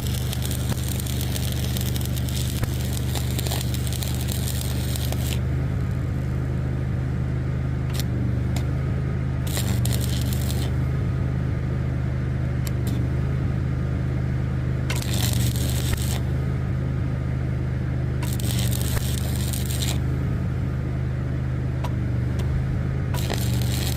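An engine running steadily. Over it, bursts of crackling hiss start and stop several times, each lasting from about a second to several seconds.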